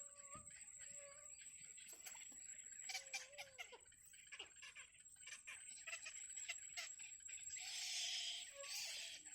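Birds calling at a nest: short calls and a wavering note about three seconds in, among scattered clicks and a burst of rustling near the end, over a steady high-pitched hum.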